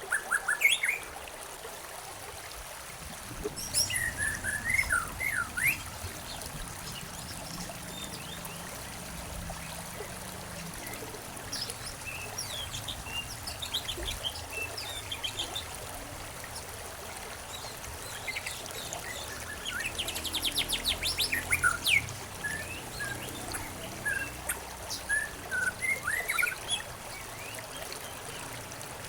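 Songbirds chirping and calling in short bouts, including a rapid trill about twenty seconds in, over a steady trickle of flowing water.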